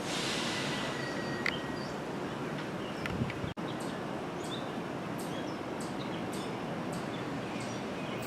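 Songbirds chirping in short, scattered calls over a steady outdoor background hiss, with no train passing. The sound cuts out for an instant about three and a half seconds in.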